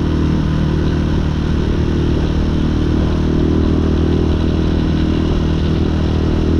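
Hawk 250 dual-sport motorcycle's single-cylinder engine running steadily while the bike is ridden at an even cruising pace.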